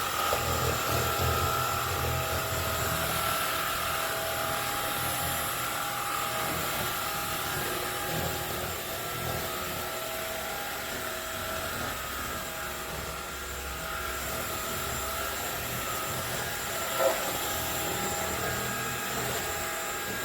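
Cordless stick vacuum cleaner running steadily, a constant motor whine over airflow noise, with a single short knock about 17 seconds in.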